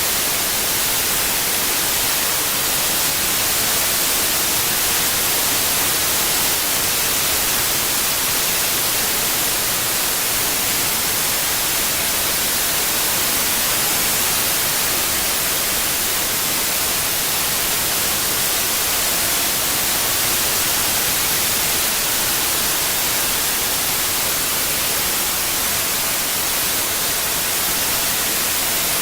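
Steady synthetic white noise: an even, unbroken hiss, strongest in the high frequencies, with no change in level.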